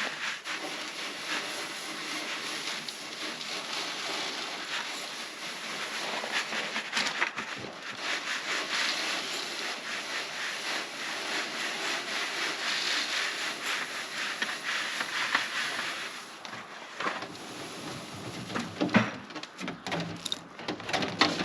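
Safflower seed being shaken across a sifting screen: a steady rustling of small seeds sliding over the mesh. After about sixteen seconds it breaks into scattered taps and knocks.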